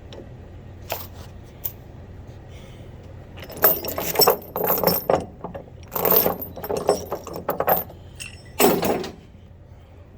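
Metal jangling and clinking: two light clicks about a second in, then several bursts of rattling metal over about five seconds, over a steady low hum.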